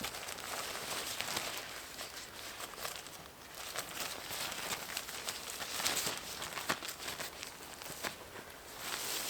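Rustling and crinkling, like material being handled, with many small scattered clicks.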